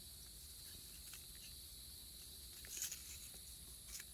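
Faint, steady high-pitched chirring of insects such as crickets, with a few soft clicks and rustles about three and four seconds in, like cards being handled.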